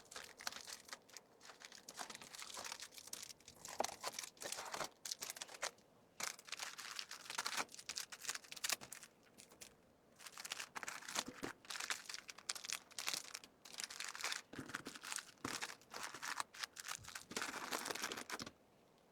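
Plastic packaging crinkling and rustling as items are handled and packed, in many short irregular bursts that stop just before the end.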